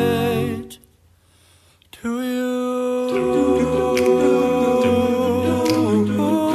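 Background music: a held final note fades out, then after about a second's gap a wordless a cappella piece begins, with long held, humming-like vocal notes that change pitch in steps.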